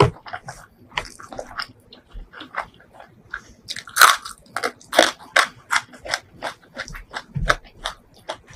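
Close-miked eating sounds: wet chewing and lip smacking in quick, irregular clicks, with a sharp crunchy bite about four seconds in as a whole green chili is bitten.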